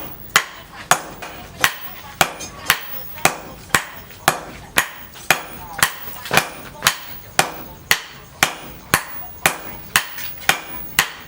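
Hammer blows on leaf-spring steel at the anvil, a steady rhythm of about two strikes a second, each with a short metallic ring.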